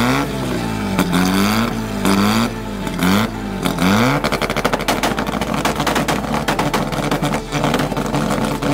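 A car engine being revved repeatedly, its pitch climbing and dropping about once a second. From about four seconds in it runs in a rapid, choppy burble, with the revving returning near the end.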